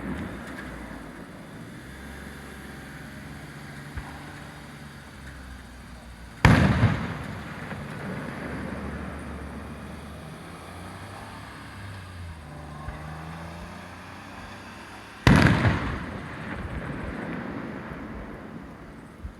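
Aerial firework shells bursting: two loud booms about nine seconds apart, each trailing off in a rolling echo, with a low rumble between them.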